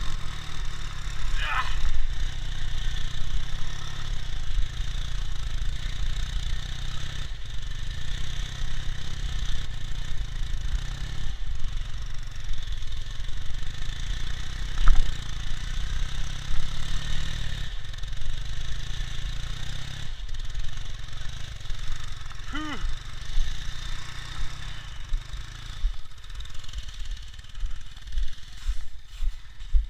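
Ural motorcycle's flat-twin engine running steadily, its level dipping and picking up again every few seconds.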